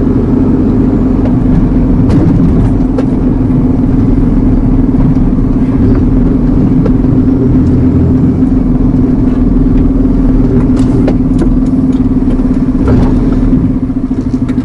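Iveco Eurocargo lorry's diesel engine and road noise heard inside the cab while driving: a steady drone with a constant hum, easing off slightly near the end.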